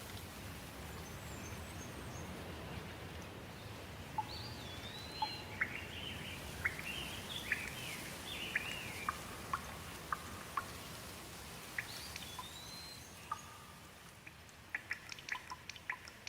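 Steady rain falling, with songbirds calling over it: a couple of swooping whistles and a run of short chirping notes. Near the end the rain thins and sharp drips tick in quick succession.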